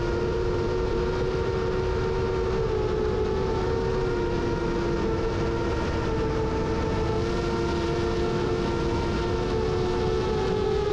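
FPV quadcopter's motors and propellers whining steadily in flight: a held, multi-toned hum that drifts slightly in pitch, over a constant rushing noise.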